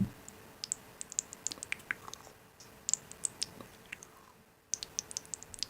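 Close-up run of small, sharp clicks and crackles, several a second and irregular, after a soft thump at the start; they pause briefly about four seconds in, then resume.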